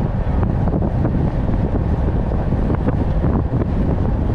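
Strong wind buffeting the microphone: a loud, steady rumble with no break.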